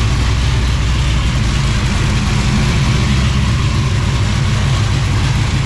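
Blown 1968 Chevelle's stroked 454 big-block V8, about 500 cubic inches with a 6-71 supercharger, idling steadily.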